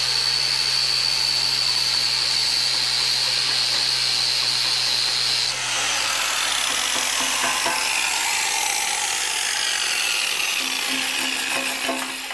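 Handheld power tool polishing welded steel, cleaning weld spatter off the faces and pin holes. It runs steadily with a high whine that drops out about halfway through, leaving a rougher grinding sound that fades away near the end.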